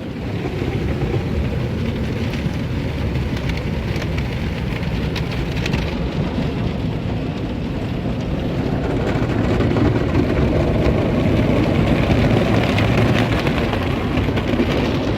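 Automatic car wash brushes scrubbing the car body with water spraying on it, heard from inside the cabin: a steady rushing, swelling a little in the second half.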